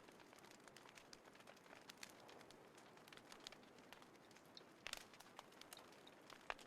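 Small wood fire crackling in a folding fire pit: quiet irregular snaps and pops over a soft hiss, with two louder pops a little before five seconds and near the end.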